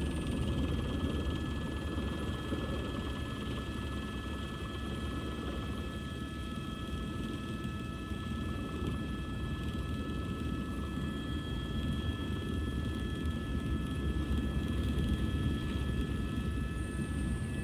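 Helicopter in flight, heard from on board: a steady low rotor and engine rumble with a fast flutter, and several steady high-pitched whining tones over it.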